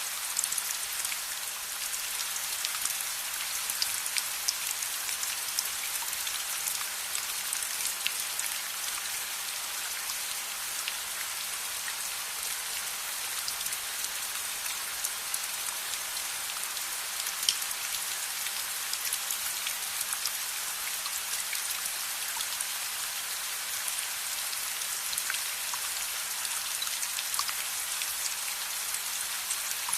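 Steady rain falling, an even hiss peppered with many small sharp drop ticks, with one louder snap about halfway through.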